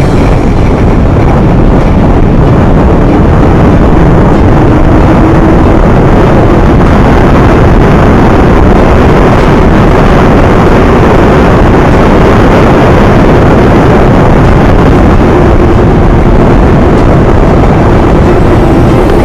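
Loud, steady wind rush buffeting the camera microphone while riding a bike, with a faint steady hum underneath.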